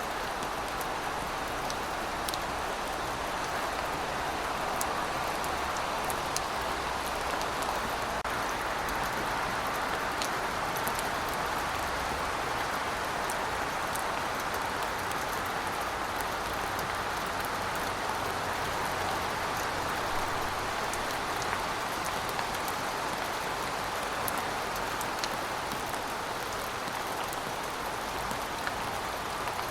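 Steady rainfall: a continuous hiss of rain with scattered individual drops ticking on a surface.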